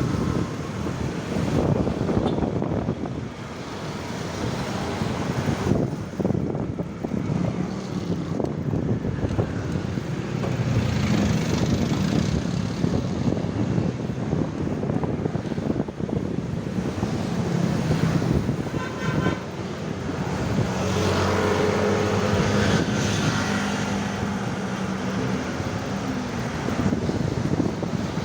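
Street traffic noise from passing motor vehicles. A vehicle engine hum stands out for a few seconds about two-thirds of the way through.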